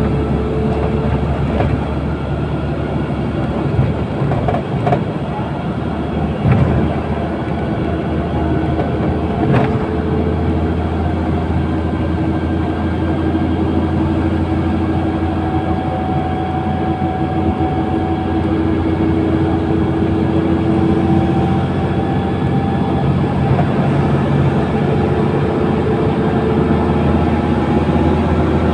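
LiAZ-5292 city bus on the move, heard from inside the cabin: a steady low engine drone with road noise. A few short knocks and rattles come in the first ten seconds or so.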